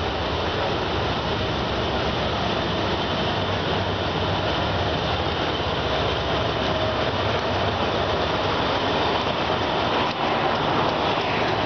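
Diesel-hauled passenger train running into the station platform: the locomotive comes up and passes, then the carriages roll by on the rails, a steady rumbling noise throughout.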